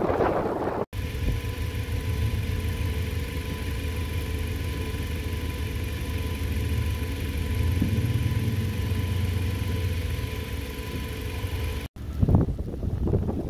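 Gusty wind buffeting the microphone, then, after a cut, a car's engine running with a steady low rumble and a faint steady high tone over it. After a second cut near the end, gusty wind buffets the microphone again.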